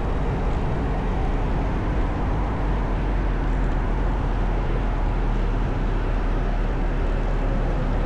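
Motorcycle riding at speed: steady wind and road noise with a low engine drone underneath.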